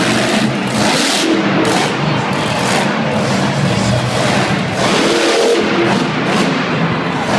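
Monster truck engines revving loudly, with background music mixed over them.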